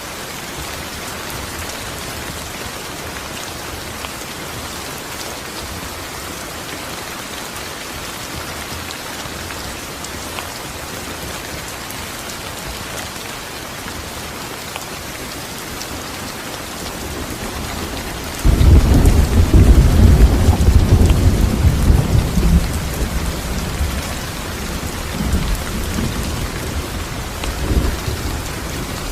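Steady heavy rain falling. About two-thirds of the way in a loud clap of thunder breaks in suddenly and rumbles deep and low for several seconds, fading in a few further rolls.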